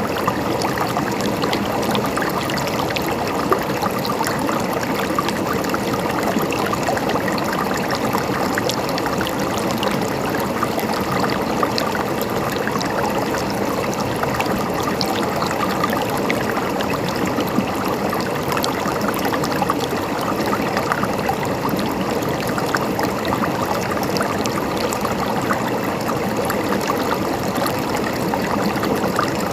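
A river flowing over stones, with a steady rush and close babbling and gurgling.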